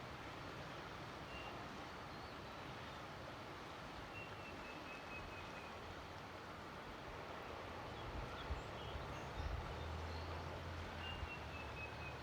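Steady outdoor rushing noise with two faint, thin descending whistled calls, typical of a bird. About two-thirds of the way in, a low hum comes up with a few short bumps.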